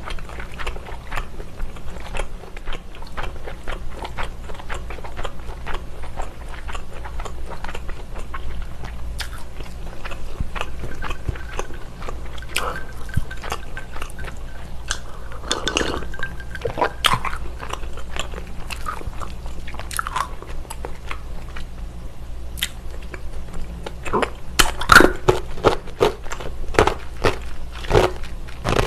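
Close-miked mouth sounds of someone chewing food, with many small crunches and clicks. About halfway through comes a drink and swallow, and the chewing gets louder near the end.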